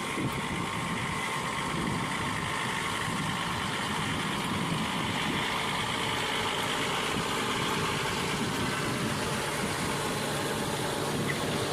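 Heavy vehicle engine running steadily at low revs, with no change in pitch.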